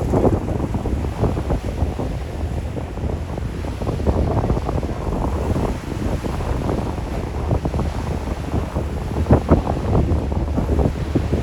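Wind buffeting the microphone on a moving ferry in uneven gusts, over a steady low rumble.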